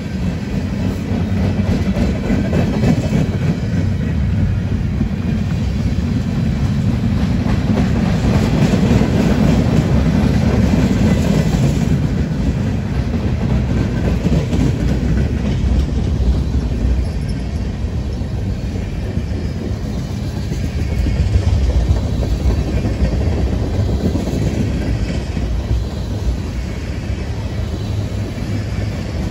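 Freight train of boxcars and tank cars rolling past: a steady rumble of steel wheels on the rails with clickety-clack over the rail joints, swelling a couple of times as the cars go by.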